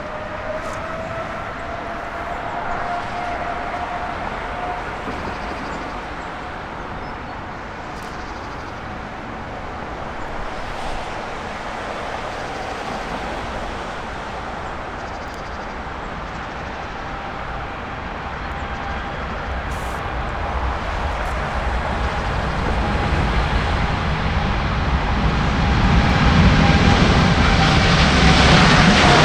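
Jet airliner engines running with a steady whine, swelling into a louder roar over the last few seconds as the aircraft draws near.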